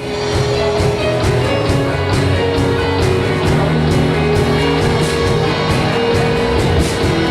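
Indie rock band playing live: electric guitars, bass and drum kit come in together after a brief pause and play on at a steady, loud level with a regular drum beat.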